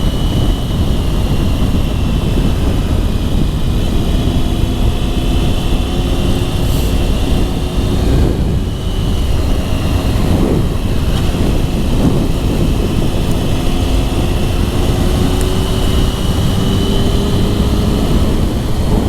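Motorcycle riding at speed, heard from the rider's camera: heavy wind rush over the engine note, which climbs slowly, with a brief dip in loudness about eight seconds in.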